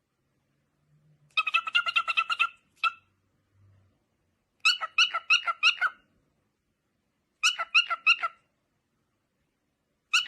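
Short, high-pitched animal calls in quick runs of about eight notes a second. There are four runs of roughly a second each, plus one lone note, with silence between them.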